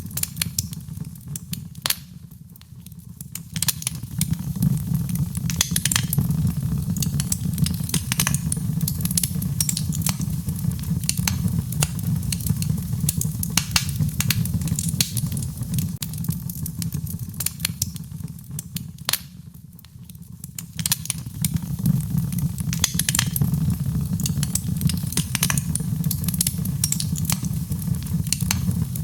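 Wood fire crackling in a fireplace: many sharp, irregular pops and snaps over a steady low rumble and a soft rain-like hiss. The whole bed dips briefly twice, about two seconds in and again near the middle.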